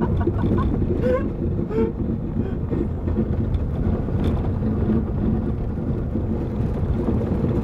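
Steady low rumble of a vehicle running, with a few short chirps between one and two seconds in.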